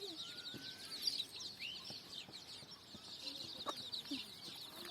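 Domestic chickens: a brood of chicks peeping faintly and continuously in many quick, high, falling cheeps, with an occasional soft low cluck.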